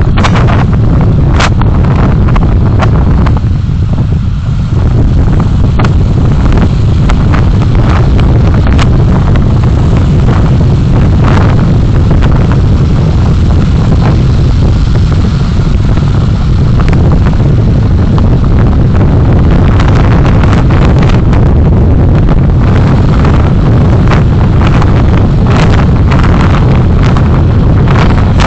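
Continuous road and engine rumble of a moving vehicle with heavy wind buffeting on the microphone, scattered with sharp clicks and knocks.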